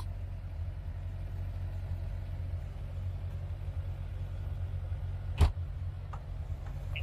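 A vehicle engine running steadily, heard from inside the cab as a low hum, with a single sharp click about five and a half seconds in.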